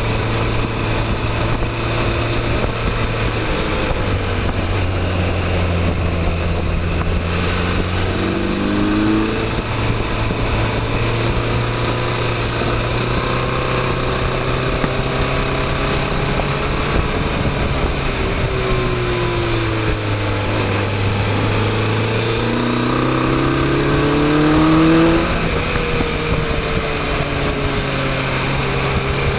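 Motorcycle engine running under way over steady wind noise, its note dropping and climbing as the rider works the throttle and gears. Near the end the engine note rises as the bike accelerates.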